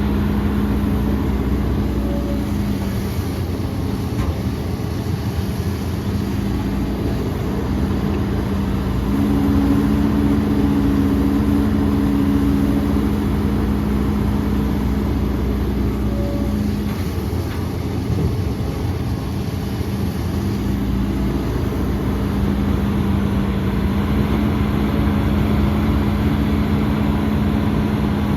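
Heavy diesel engine of earthmoving machinery running steadily, its hum stepping up in pitch about a third of the way in, dropping back a little past halfway, and rising again near the end as the engine is loaded and revved.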